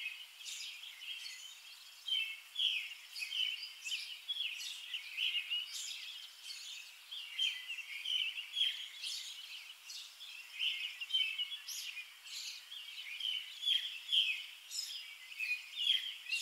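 Small birds chirping: a dense stream of short, overlapping high calls.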